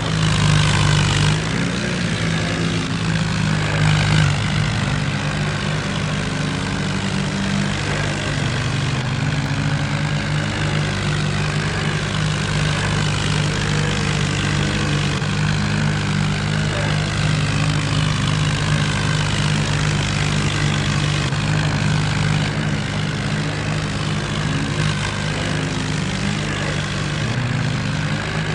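Diesel tractor engine running steadily, with a strong low hum.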